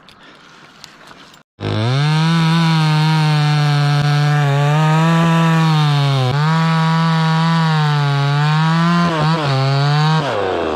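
Two-stroke chainsaw running at high revs and cutting wood, starting abruptly after a short silence about a second and a half in. It holds a steady high engine note that dips slightly under load a few times, and the revs drop away near the end.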